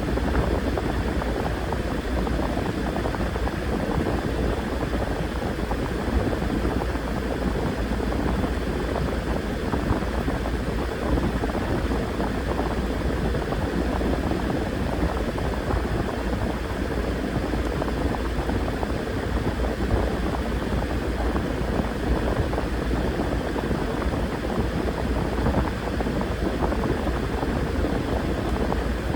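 Washing machine running steadily, with a constant low hum and an even churning noise from the drum and the water inside.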